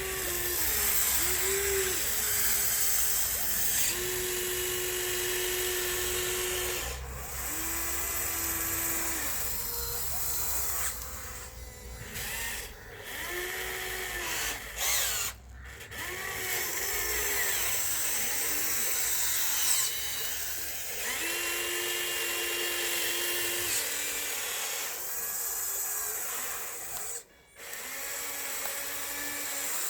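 Electric drive motors and gearboxes of a Huina 1554 radio-controlled bulldozer whining as it drives back and forth. The pitch rises and falls with each short move and holds steady for a few seconds on longer pushes. The sound drops out briefly twice.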